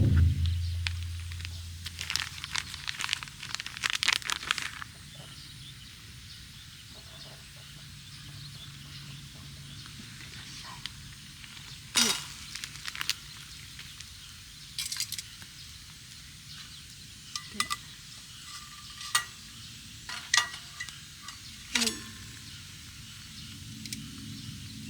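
Scattered clinks and taps of eating utensils against a dish, with a dull thump at the start that rings low and fades over a second or so, and a quick run of small clicks a few seconds in.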